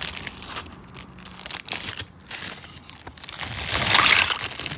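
Packaging crinkling and rustling as a parcel of opal rough is opened, with a louder rustle about four seconds in.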